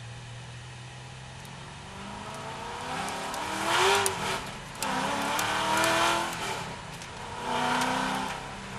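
C6 Corvette's V8 accelerating hard through the gears: three rising pulls, each cut short by an upshift.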